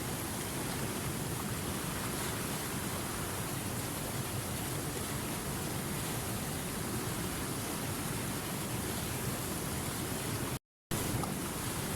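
River water running steadily, an even rushing hiss. The sound cuts out completely for a split second about ten and a half seconds in, then resumes.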